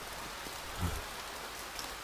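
Steady rain falling, with one brief low thump a little under a second in.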